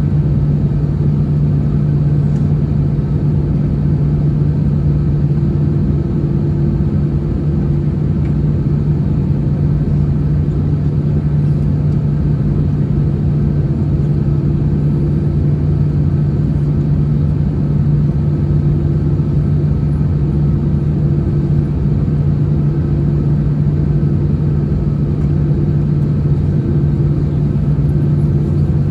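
Steady cabin drone of an Airbus A321-211 heard from a window seat: the hum of its CFM56 engines over a broad rumble of airflow, with no change in pitch or level.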